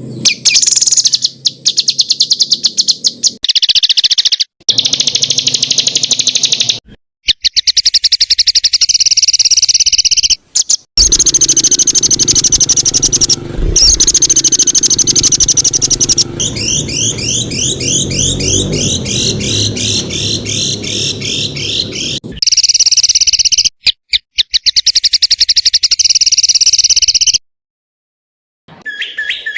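Songbirds singing fast, dense trills and chattering song in loud bursts, spliced together with abrupt cuts and short dead gaps, including about a second of silence near the end. In the middle comes a run of quick repeated rising notes.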